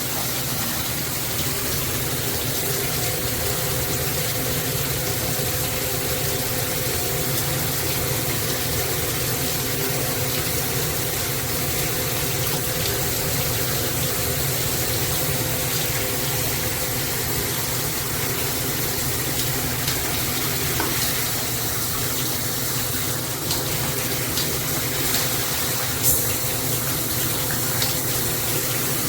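Handheld high-pressure shower head spraying water in a steady, full hiss, with one brief click about three-quarters of the way through.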